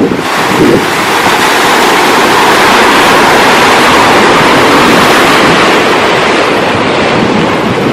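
Ocean surf: a wave breaking and washing in as one long, loud rush of foam. Its hiss thins out after about five seconds.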